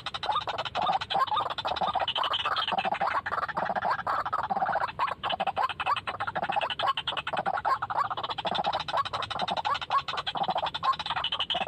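White-breasted waterhen calling: a rapid, unbroken run of harsh croaking notes repeated several times a second.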